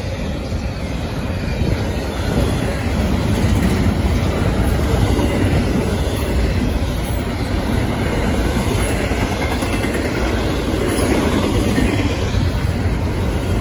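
Double-stack intermodal freight cars rolling past close by: a steady rumble and rattle of steel wheels on the rails, growing a little louder in the first couple of seconds.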